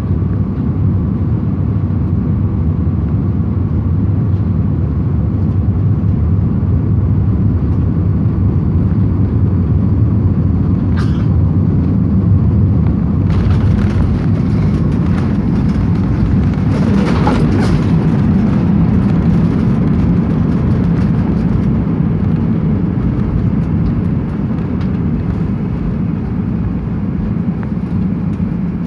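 Steady airliner cabin noise in flight: engine and airflow rumble heaviest in the low end, with a faint steady hum. A brief click comes about eleven seconds in, and a few seconds of added higher hiss follow near the middle.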